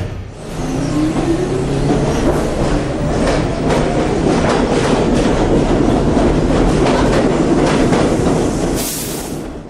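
Subway train pulling away and gathering speed: its motor whine rises steadily in pitch over the first few seconds, with rail clicks throughout. A short burst of hiss comes near the end.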